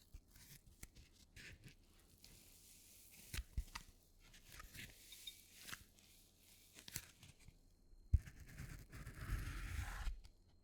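Packing materials being handled close up: soft rustling and tearing with scattered small clicks. About eight seconds in there is a sharp knock, followed by a couple of seconds of denser rustling.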